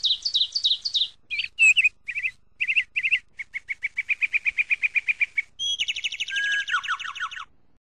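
A songbird singing a string of varied phrases: quick high chirps, then a fast even trill of about nine notes a second, then denser overlapping trills near the end.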